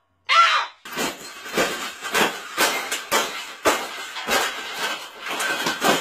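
A wire bird cage being bent and folded, making repeated rough crunching and rattling strokes, about two a second. A short vocal sound comes just before the strokes begin.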